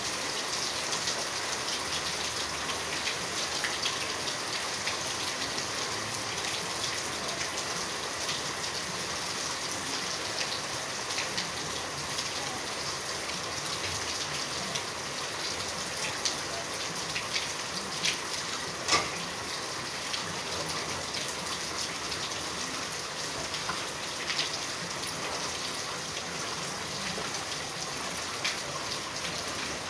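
Steady rain falling, with individual drops ticking sharply on hard surfaces and one louder drop strike about two-thirds of the way through.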